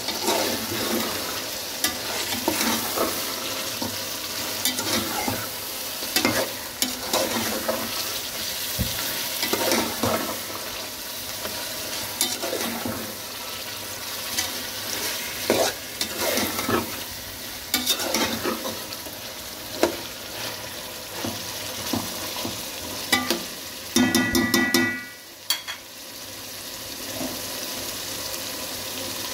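Food sizzling as it fries in a pot, with a spoon stirring and scraping through it every second or two. Near the end comes a brief rattle of quick taps, after which the sizzle carries on more quietly.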